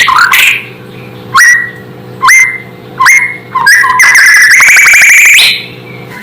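White-rumped shama (murai batu) singing: short whistled notes that each end in a sharp upward sweep, about one a second, then a fast rising trill of rapid notes lasting about a second and a half.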